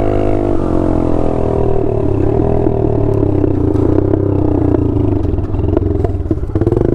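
Small dirt bike's engine running flat out, its pitch wavering and dipping slightly as it rides, then picking up again near the end.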